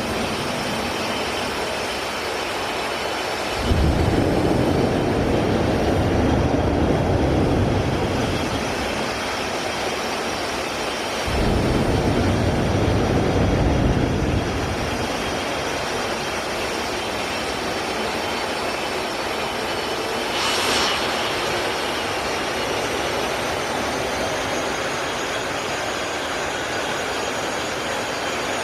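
Jet truck's jet engine running with a continuous roar and whine, surging louder twice for about three seconds each, about 4 and 11 seconds in.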